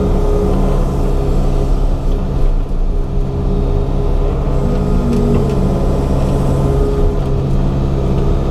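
Excavator's diesel engine running steadily, heard from inside the operator's cab, with a slight shift in pitch and load a couple of seconds in.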